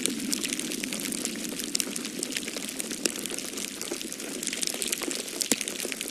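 Wood fire crackling in a fireplace: frequent sharp pops and snaps, the loudest about five and a half seconds in, over a steady low rush of storm wind.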